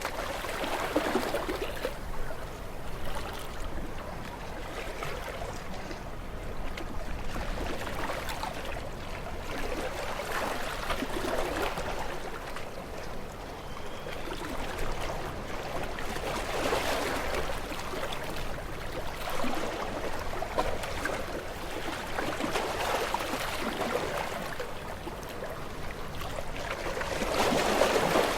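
Small waves washing onto a shore, a steady rush of water that swells every few seconds as each wave comes in, with the biggest surge near the end.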